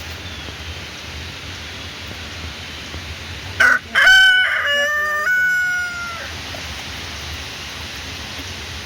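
A rooster crows once, about three and a half seconds in: one stepped call lasting a little over two seconds, over a steady hiss of rain.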